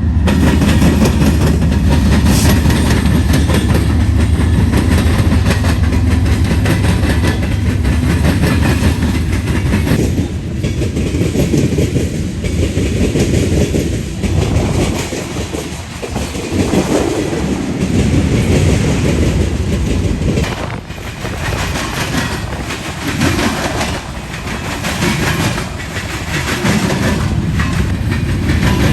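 Freight train passing: two BNSF diesel locomotives go by with a steady low engine hum for roughly the first ten seconds, then the train's cars roll past with a rumbling noise that swells and fades.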